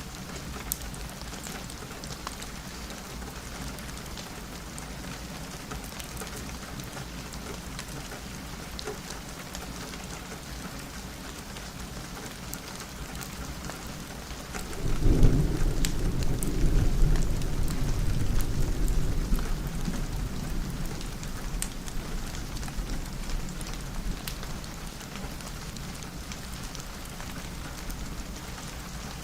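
Steady rain pattering on a window, with a rolling peal of thunder that breaks in suddenly about halfway through and slowly rumbles away over the next ten seconds or so.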